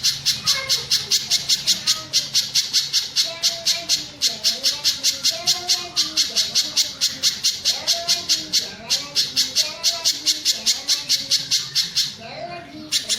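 Spiderhunter calling: an even, rapid run of sharp high notes, about five a second, breaking off briefly near the end and then resuming, over softer warbling lower notes.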